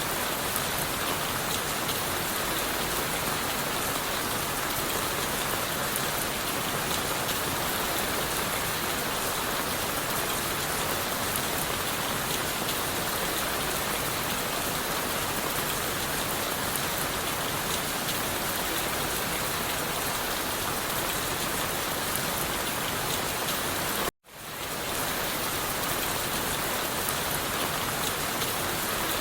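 Steady rain falling, an even, dense hiss of drops. About 24 seconds in, the sound cuts out for a split second and fades back in.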